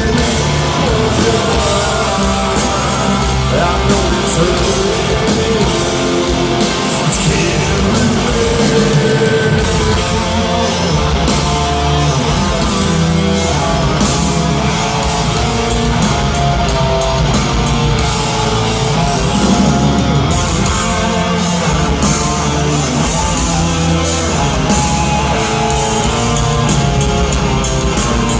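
Heavy metal band playing live: distorted electric guitars, bass and drums at a loud, steady level, with a singing voice.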